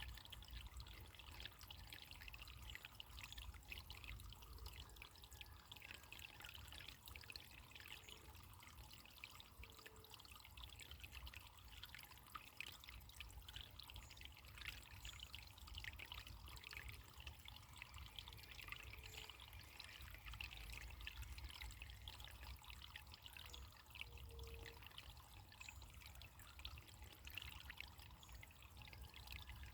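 Faint, steady trickle of running water, a small stream splashing lightly.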